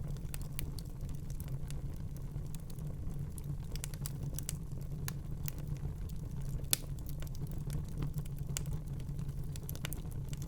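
Wood fire burning in a fireplace: irregular sharp crackles and small pops over a steady low rumble, with one louder pop about two-thirds of the way through.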